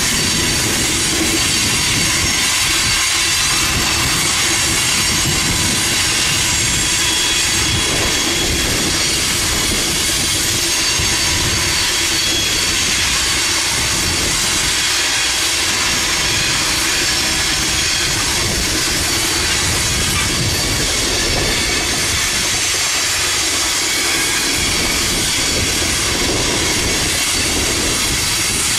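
Freight train cars rolling steadily past, steel wheels on rail giving off several high, sustained squeals over a continuous rumble and clatter.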